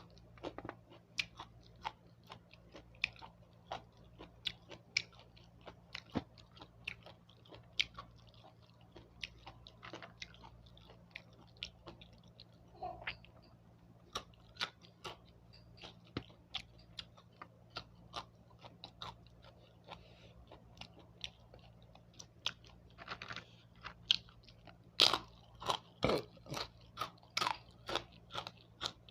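A person eating close to the microphone: chewing with many short, sharp crunches of crisp food, which grow louder and come thicker near the end.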